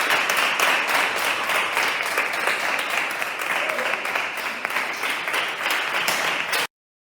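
An audience applauding, many hands clapping steadily, cut off abruptly near the end.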